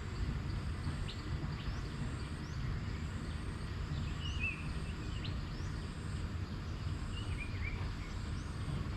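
Outdoor ambience: birds calling, with scattered short rising chirps and two fuller warbled calls about four and seven and a half seconds in, over a steady low rumble and a faint high insect drone.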